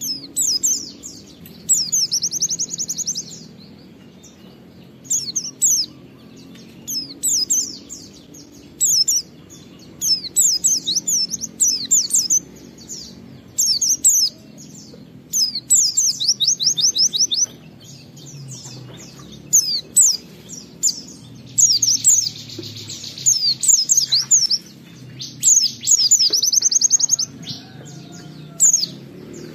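White-eye (pleci) singing in the long, run-on ngalas style: bursts of rapid, high, sweeping twittering notes, some phrases running into fast trills, repeated every second or two.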